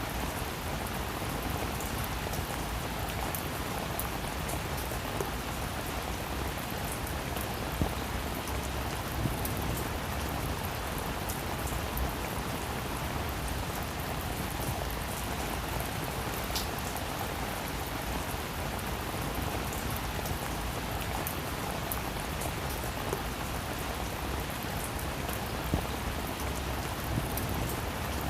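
Steady rain falling on a roof: a dense, even patter of drops, with a few louder single drops standing out now and then.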